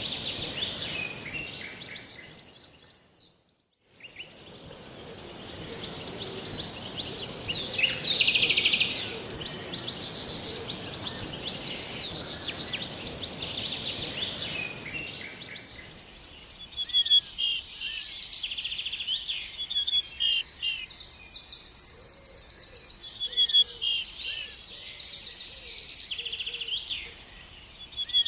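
Songbirds singing, with repeated quick high chirps and trills. A steady hiss lies under the first half. About three to four seconds in, the sound fades out to silence and back in. From about halfway, the hiss drops and the chirping phrases come through clearer and sharper.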